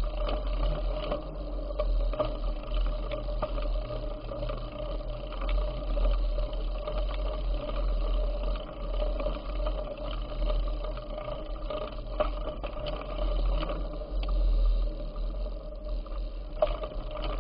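Bicycle riding noise: wind buffeting the microphone as a low rumble, with a steady hum and scattered clicks and rattles.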